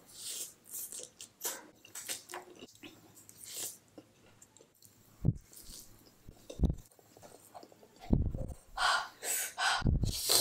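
A person chewing and slurping stir-fried noodles close to the microphone: wet mouth sounds with a few low thumps, growing denser and louder with breathing near the end.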